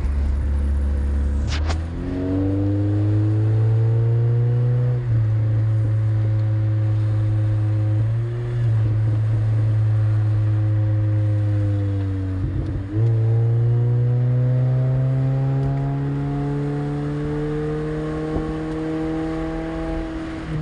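Honda engine pulling on the road, its pitch climbing and dropping back at gear changes about five seconds in, about eight seconds in and near the middle, then rising slowly, over wind and road noise; a test run of freshly made repairs.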